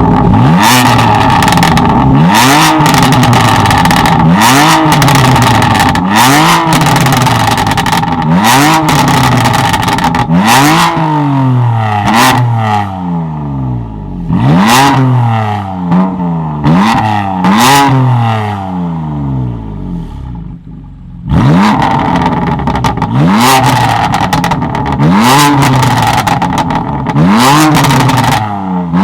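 Tuned performance car engine revved hard in quick repeated blips, each rev rising and falling in about a second. Sharp exhaust pops and crackles come as the revs drop, and there is a short lull about twenty seconds in before the revving resumes.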